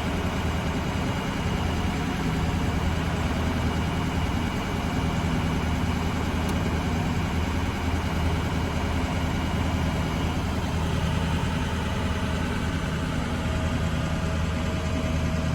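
2008 Ford ambulance's 6.0L Power Stroke V8 turbo-diesel idling steadily.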